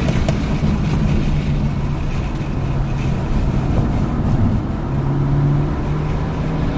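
Hyundai Elantra N's turbocharged four-cylinder engine running under load at track speed, its note dipping briefly and then rising again about five seconds in, over heavy road and wind noise.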